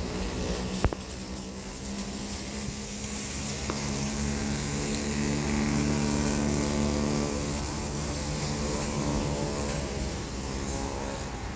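A motor vehicle engine running with a steady hum, growing louder through the middle and easing off near the end, over a constant high hiss; a single sharp click about a second in.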